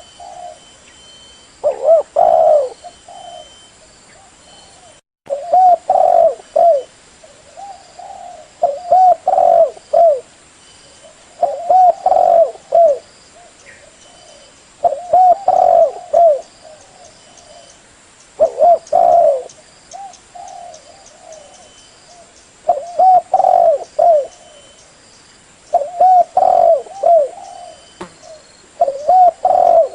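Spotted dove (tekukur) cooing: a loud phrase of several short, arching coos, repeated about every three to four seconds.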